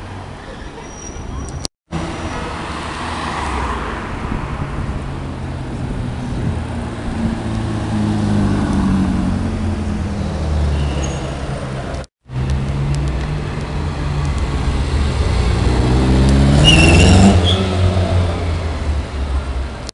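Sports car engines, including a Ferrari California's V8, accelerating away along a city street with traffic noise. The engine note rises through the middle, and near the end an engine revs hard with a steeply rising pitch, the loudest moment.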